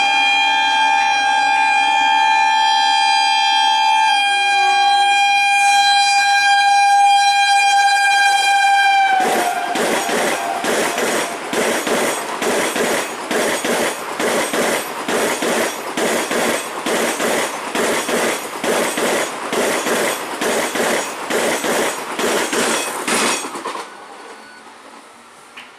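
Passing express train sounding a long, steady horn that drops slightly in pitch as it goes by. Then comes a rhythmic clickety-clack of wheels over rail joints, about two beats a second, which cuts off suddenly near the end.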